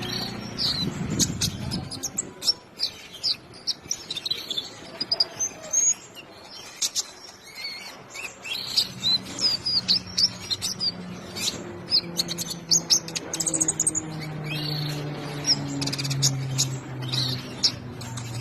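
Kolibri ninja sunbird singing: a fast run of short, high chirps and twitters. In the second half a low hum runs underneath, slowly falling in pitch.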